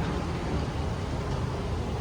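Steady low rumble and hiss of an airliner cabin, engine and airflow noise heard from inside the aircraft.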